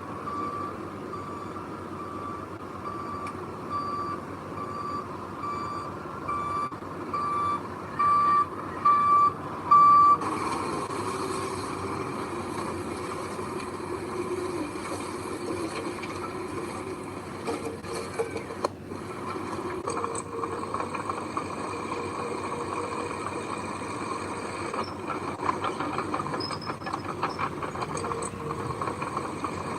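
A heavy construction vehicle's reversing alarm beeping at an even pace, about twice a second and getting louder, then stopping about ten seconds in. After that the vehicle's engine keeps running, with some rattling.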